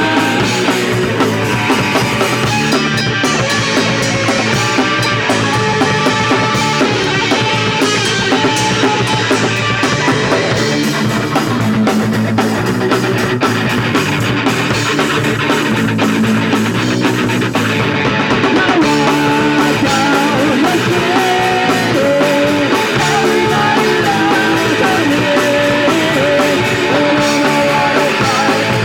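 Punk rock band playing live: distorted electric guitar and drum kit, loud and continuous.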